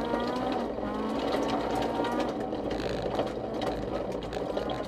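Honda CRX rally car's engine heard from inside the cabin, revving up hard several times and dropping back as it shifts gears on a gravel stage, with constant clattering from stones and cabin fittings.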